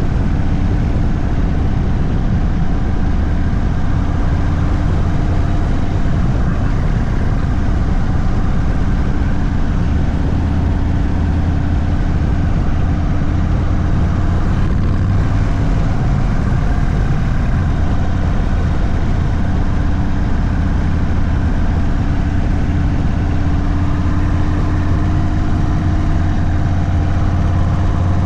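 Indian Sport Chief's V-twin engine running through a Sawicki Speed aftermarket exhaust at steady low revs, a constant deep exhaust note with only a slight rise in pitch near the end.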